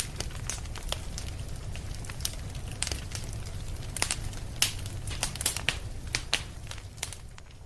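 Wood fire crackling in a fireplace: irregular sharp pops and snaps over a steady low rumble, coming thickest a little past the middle.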